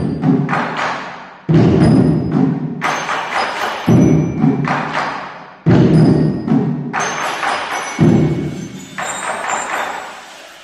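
Percussion music: a loud struck accent about every two seconds, each ringing away, with a thinner ringing pattern near the end.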